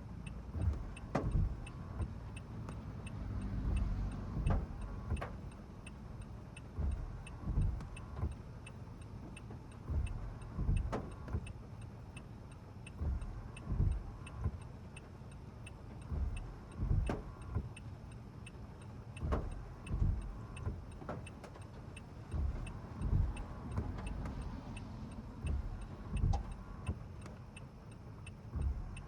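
A car's turn-signal indicator ticking steadily and evenly inside the cabin, under the low rumble of the car with irregular low thumps.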